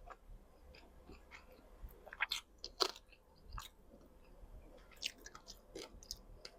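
Faint close-up eating sounds: someone chewing and biting boiled frogs, with scattered wet clicks and a few small crunches, the busiest stretch from about two to three seconds in.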